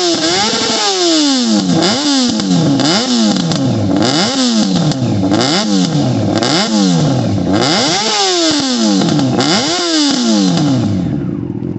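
Yamaha FZ6 motorcycle's inline-four engine being revved repeatedly, the throttle blipped about once a second so the pitch rises sharply and falls back each time, settling down near the end.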